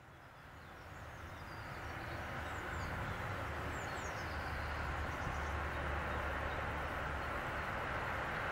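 Rumble and rail noise of an approaching train, growing louder over the first few seconds and then holding steady, with a few bird chirps about three seconds in.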